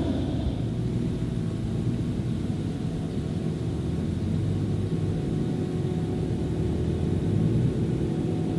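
Claas Jaguar 980 forage harvester's V12 diesel running steadily under load while chopping maize, a deep even drone with a steady whine over it.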